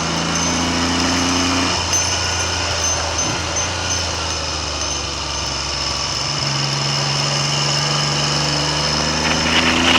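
Triumph Trident three-cylinder motorcycle engine running under way, its note shifting a few times, with wind noise buffeting the microphone.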